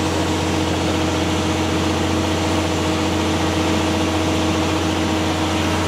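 Concrete pump truck's engine running steadily, powering the hydraulics as its boom arm is moved by remote control, with a steady hum and a constant mid-pitched drone.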